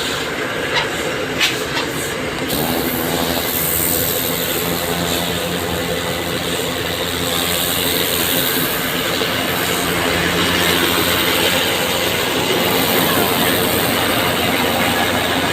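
Steady rush of a high-pressure water jet flushing pavement, with a motor humming steadily underneath. A few sharp clicks sound in the first two seconds.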